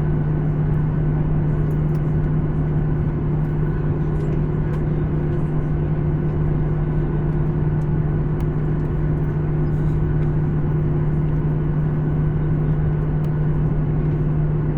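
Steady hum inside the cabin of an Embraer 175 regional jet on the ground, carrying a strong low drone with fainter higher tones above it and a few faint clicks.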